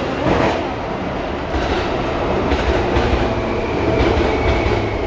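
A yellow Seibu 2000-series electric train passing close by on the adjacent track, its wheels clattering over the rail joints and points. Heard from inside a standing train.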